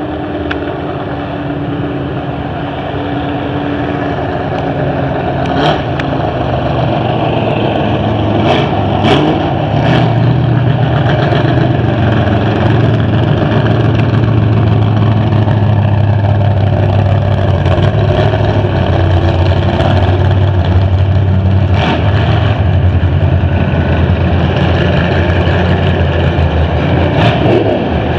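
Racing car engines running, a steady low drone that builds over the first ten seconds, with a few short sharp clicks along the way.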